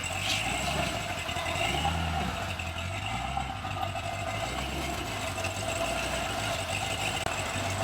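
Custom Ford Ranger show truck's engine idling steadily, with one brief rise and fall in engine pitch about two seconds in.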